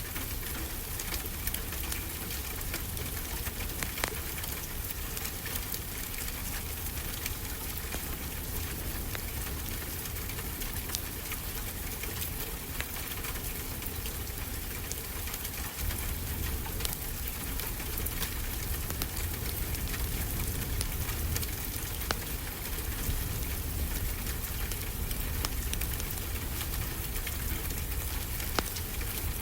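Steady rain with a low rumble, mixed with scattered sharp crackles and pops from a wood fire.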